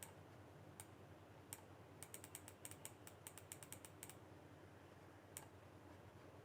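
Faint clicks of a computer mouse and keyboard: a few single clicks about a second apart, then a quick run of about a dozen, and one more near the end.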